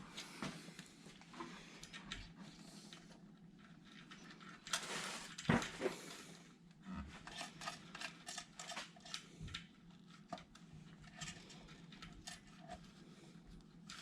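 Small metal clicks and clinks of bolts, nuts and hand tools being handled and sorted, with a louder, longer rustle about five seconds in.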